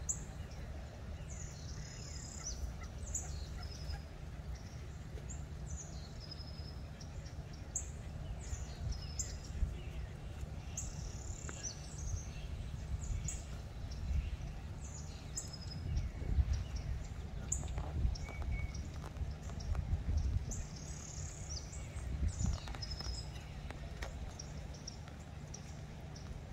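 Short high-pitched bird chirps scattered throughout, over a steady low rumble that swells louder several times in the middle of the stretch.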